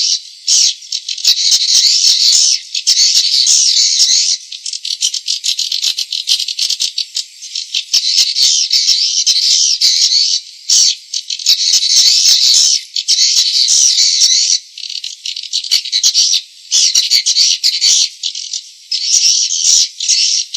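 Swiftlet lure-call recording: a dense, high-pitched chirping twitter of swiftlets, broken by several stretches of rapid clicking, the longest about a quarter of the way in. Nothing low is heard; the sound sits wholly in a high register.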